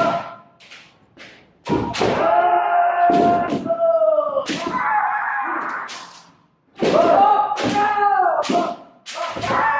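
Kendo sparring: sharp cracks of bamboo shinai striking armour, with loud, drawn-out kiai shouts held for a second or two, the longest about two seconds in and near the end.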